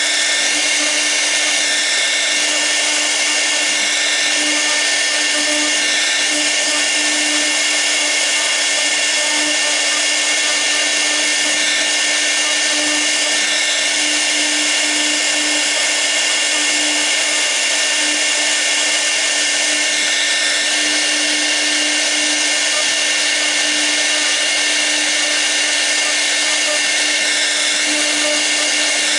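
CNC router's 6 kW air-cooled spindle running at speed with a steady high whine and fan hiss, its V-bit cutting a carving toolpath.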